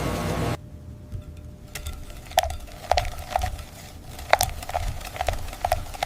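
A steady machine hum cuts off half a second in. It is followed by irregular clinks and taps of small hard objects on metal, each with a short ring, coming faster near the end.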